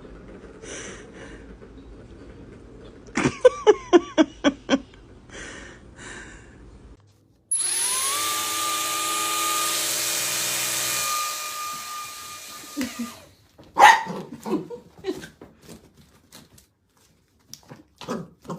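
A dog barking in a quick run of about seven barks, then a loud, steady motor noise with a held whine, such as a vacuum cleaner or power tool, for a few seconds, then more scattered barks and yelps.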